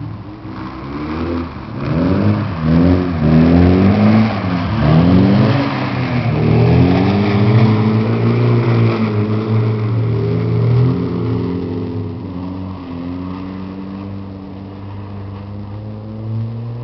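Car engine accelerating hard as the car drives past, the revs swinging up and down in quick surges for the first several seconds. It then holds a steadier, slowly rising note that fades as the car pulls away.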